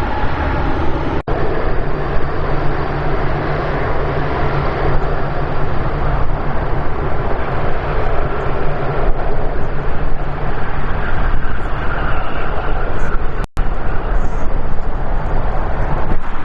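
Jet airliner engines: a steady, loud roar of a Boeing 787 Dreamliner arriving. The roar breaks off for an instant twice, about a second in and near the end.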